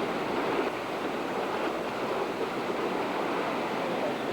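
Hurricane wind and breaking surf making a steady, even rushing noise.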